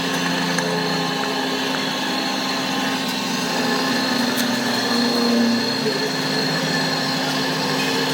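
A machine-shop power tool running steadily: a constant hum with a high hiss and a few faint clicks, swelling slightly about two-thirds of the way through.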